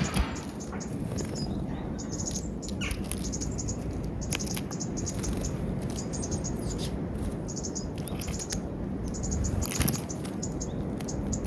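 Small wild birds chirping in short, high calls, with a few sharp clicks, over a steady low background rumble.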